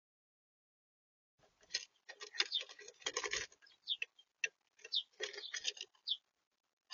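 Small birds at a seed feeder, pecking and scratching at the seed in quick irregular taps, with a few short high chirps. The sound starts about a second and a half in.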